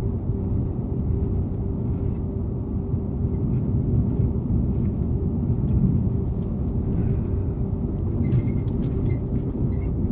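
Renfe Class 120 (CAF) variable-gauge train heard from inside the carriage, running with a steady low rumble and hum. Light clicks and rattles from the carriage come and go, most of them in the last couple of seconds; this train rattles a lot.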